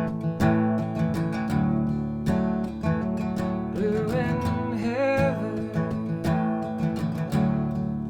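Acoustic guitar in open G tuning, strummed steadily through a two-chord A–D pattern with a partial capo over the middle four strings.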